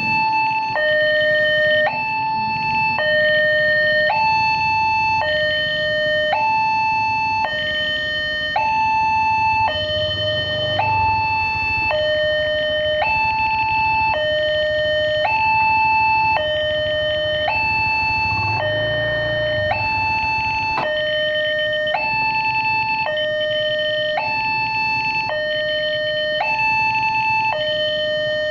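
Railway level-crossing warning alarm sounding continuously, an electronic two-tone high-low call repeating about once every one and a half seconds. A low rumble swells briefly twice beneath it.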